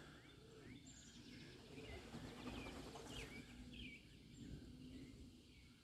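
Near silence: faint outdoor background hum with a few faint, short bird chirps around the middle.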